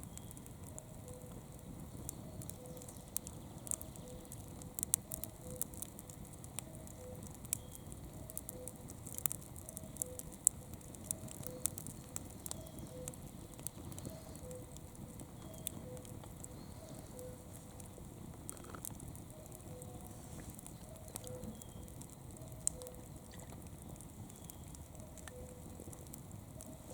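Campfire burning: wood crackling with many sharp pops over a steady low hiss of flame. A faint short pip repeats about every 0.8 seconds in the background.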